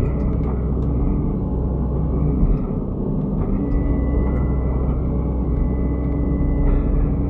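Excavator's diesel engine running steadily, with a steady whine joining about three and a half seconds in.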